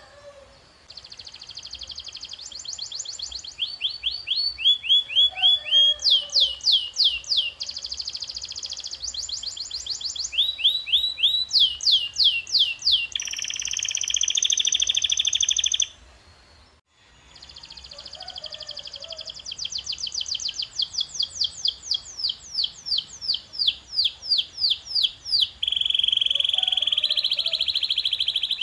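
Domestic canary singing: rolling tours, each a fast run of repeated falling whistled notes, with a buzzier steady trill partway through. The song breaks off for about a second just after the middle, then resumes.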